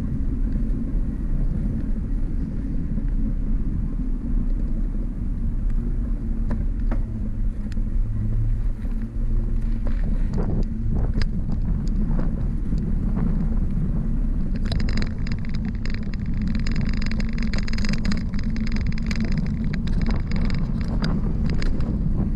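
Wind rumbling on the microphone, mixed with road noise, during a bicycle ride. About two-thirds of the way in, a higher steady whine with several pitches joins for several seconds.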